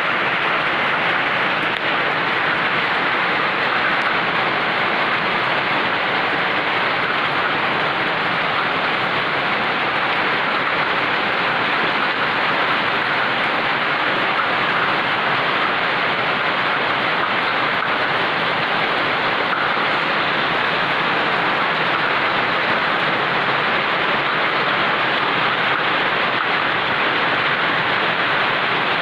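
Heavy rain falling: a steady, even hiss of rain that holds level throughout.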